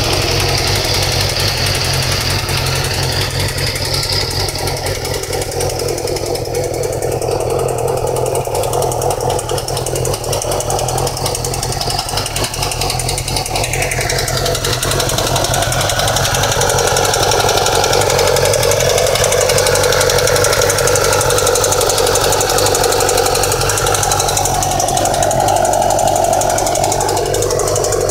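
A 2008 Yamaha YZF-R6's inline-four engine idling just after a cold start, with the nasty ticking noise that the owner suspects comes from the timing chain or cams. Its note shifts about halfway through.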